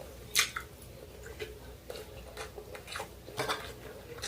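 Cutlery clicking and scraping against a dish during a meal, in scattered light taps, with a sharper click about half a second in and a few more past three seconds.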